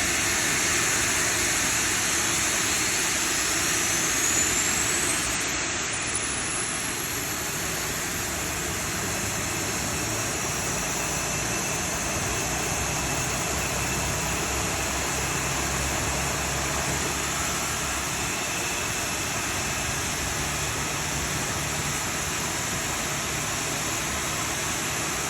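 Rolls-Royce Trent XWB turbofan starting on the ground: a thin high whine climbs steadily in pitch over the first ten seconds or so as the engine spools up, over a steady rushing noise.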